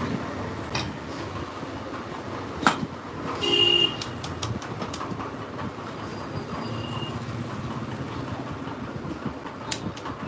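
Scattered metal clicks and knocks from hand work on a motorcycle gearbox, with one louder knock over two and a half seconds in, over a steady low rumble. A brief squeal sounds about three and a half seconds in.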